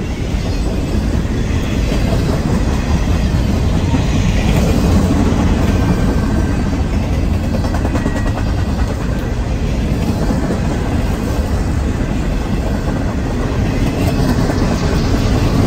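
Train rolling past close by: a loud, steady rumble of wheels on the rails.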